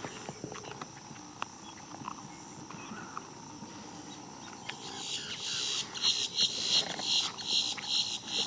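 Quiet outdoor wetland ambience with a few faint clicks. About five seconds in, a high-pitched chirping starts and repeats rhythmically, about two to three pulses a second.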